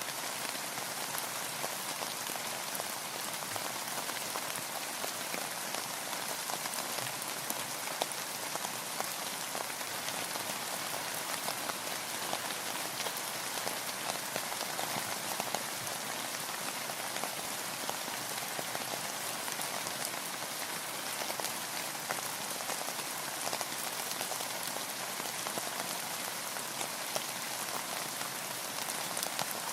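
Steady rain with dense individual drop patters, falling on a boat's roof and the water around it. The level stays even throughout.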